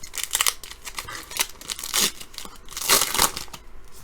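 A foil trading-card pack wrapper being torn open and crinkled by hand, in a series of sharp crackles, the loudest about two and three seconds in.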